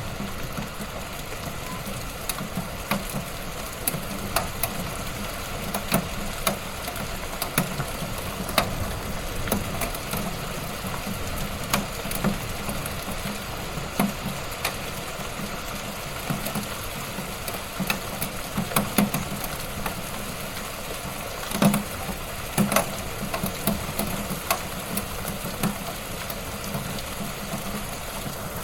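Fire burning in a fireplace, crackling: a steady hiss under irregular pops and snaps, with the loudest pop about three quarters of the way through.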